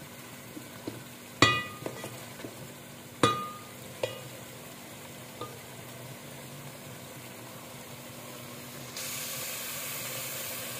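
Potatoes frying in masala in an aluminium pot, sizzling steadily as they are stirred with a wooden spatula. The spatula knocks the pot a few times in the first half, each knock ringing briefly, the first the loudest. Near the end the sizzle grows louder.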